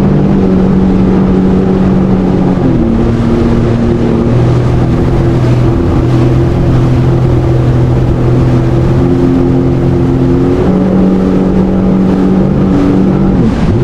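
Jet ski engine running under way at a loud, steady level. Its pitch drops about three seconds in and rises again later as the throttle changes.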